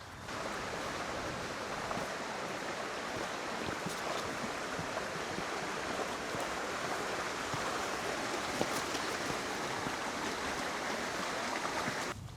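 Hail pelting down: a dense, steady hiss of countless tiny impacts that starts and stops abruptly.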